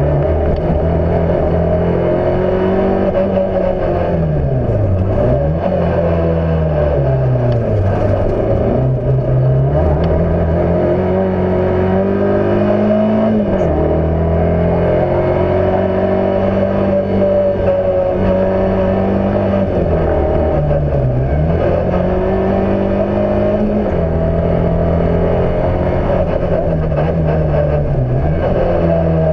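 Fiat Cinquecento's engine heard from on board at racing pace, repeatedly revving out, dropping sharply and climbing again, about five times, as it brakes, shifts and accelerates through the corners.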